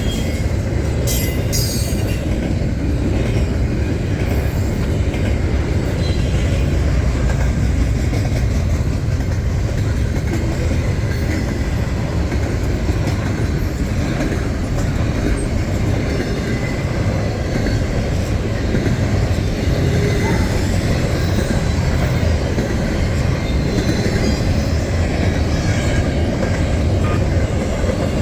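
Freight train cars rolling past, a steady loud rumble of steel wheels on rail with clicks over the rail joints and faint wheel squeal.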